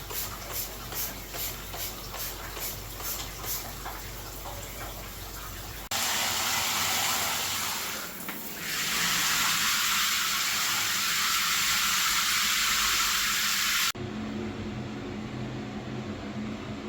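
Kitchen tap running in a strong stream into a sink for about eight seconds, dipping briefly partway through: rinsing water during fan cleaning. Before it comes a soft rhythmic stroking, about two or three strokes a second, and after it a steady low hum.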